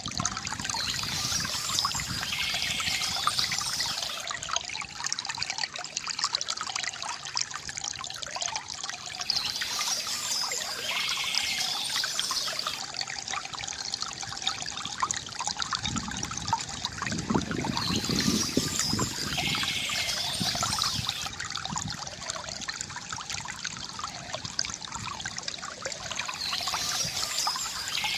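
Water trickling and gurgling steadily from a bamboo fountain, with a deeper gurgle past the middle. Birds chirp in short bouts about every 8 to 9 seconds.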